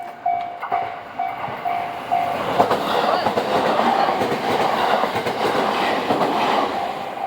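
Japanese level-crossing bell ringing about twice a second. About two seconds in, a train runs over the crossing fast and its clattering wheels over the rail joints drown out the bell.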